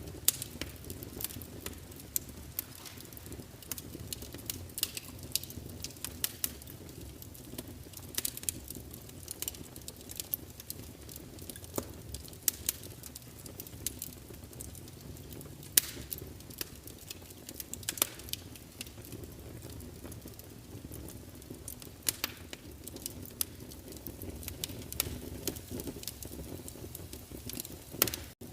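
Wood fire crackling in a fireplace: irregular sharp pops and snaps over a steady low rush, with a brief dropout near the end.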